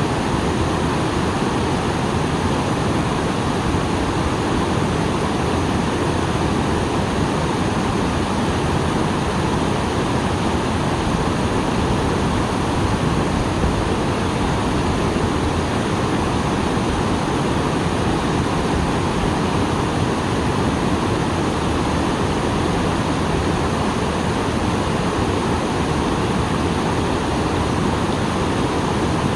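Small waterfall rushing steadily after rain, a dense, even roar of falling water.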